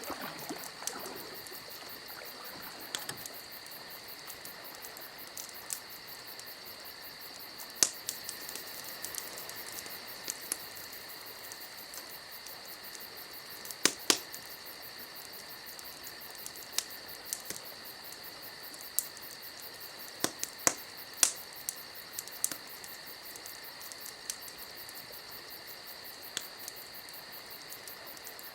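Campfire crackling: sharp pops and snaps at irregular intervals, the loudest about 8, 14 and 21 seconds in, over a steady high-pitched hiss.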